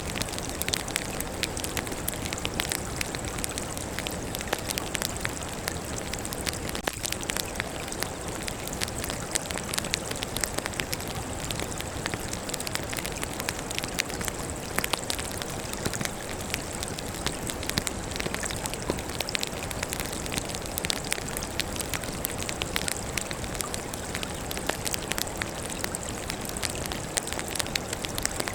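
Wood fire burning, crackling steadily with many quick sharp pops and snaps over a continuous hiss.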